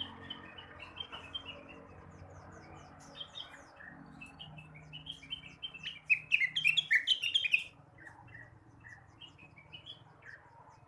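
Blue-winged leafbird (cucak wilis) singing: a string of varied chirps and whistles that quickens into a loud, rapid burst of notes about six seconds in, breaking off near eight seconds, followed by softer scattered notes.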